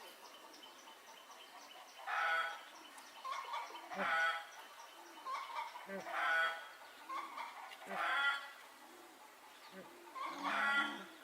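Chickens clucking and squawking: five loud calls about two seconds apart, with softer clucks between them.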